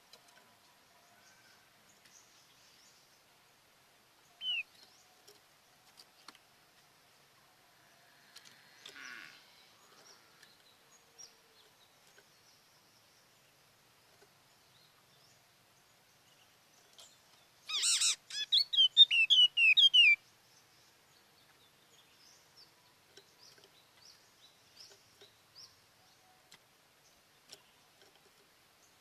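A bird calling: one short chirp early, then a rapid run of quick, falling chirping notes lasting about two seconds past the middle, over a faint background.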